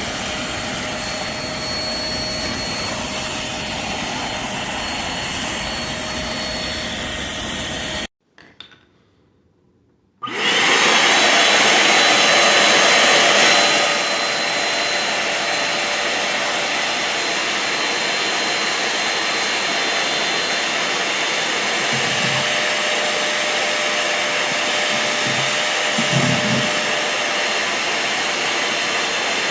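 Hoover CleanSlate Plus portable spot cleaner's suction motor running steadily, a loud rushing hiss with a faint whine. It cuts off abruptly about eight seconds in, and after a couple of seconds of near quiet with a click it starts again, louder for its first few seconds.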